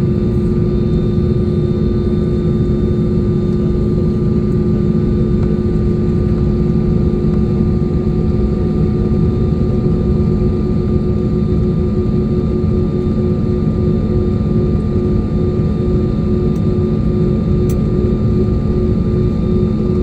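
Airbus A320 jet engines running steadily, heard from inside the passenger cabin. Several constant whining tones sit over a low rumble.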